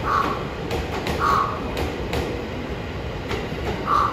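An E231 series 1000 electric commuter train rolls slowly alongside the platform with a low rumble, its wheels clicking over rail joints. Three short harsh calls stand out above it, louder than the train: two about a second apart near the start and one near the end.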